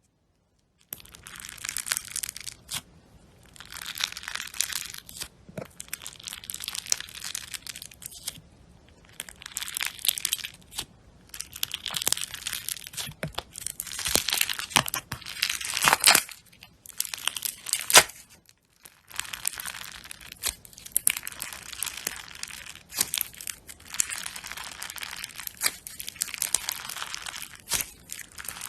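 Slime being squeezed and worked by hand: bursts of dense crackling and popping a second or two long, with short pauses between them, starting about a second in. A couple of sharper snaps stand out about two-thirds of the way through.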